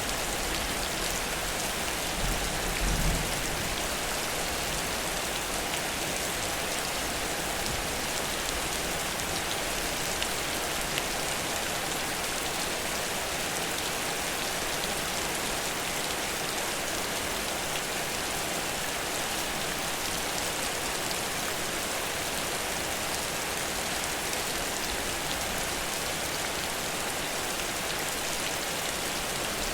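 Heavy, steady downpour of rain pattering on surfaces, with a brief low rumble about two to three seconds in.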